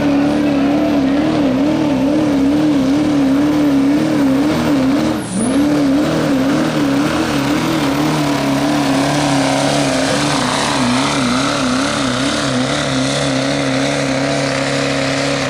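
Turbo-diesel pulling truck engine at full throttle under heavy load, its pitch wavering rapidly up and down as the truck pulls the sled. The engine briefly sags about five seconds in, then comes back up.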